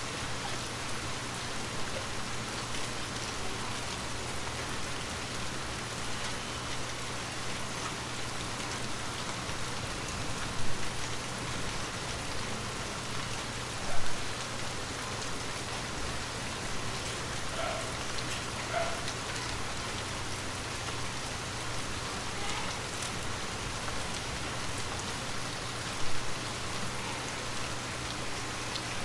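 Steady rain falling on a window, with scattered drops ticking on the glass. Three sharper, louder drop hits stand out, about ten, fourteen and twenty-six seconds in, the one near fourteen seconds the loudest.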